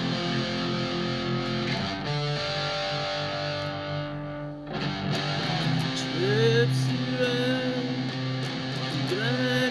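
Instrumental guitar music: held chords, then from about six seconds in a melody line with bending, sliding notes over them.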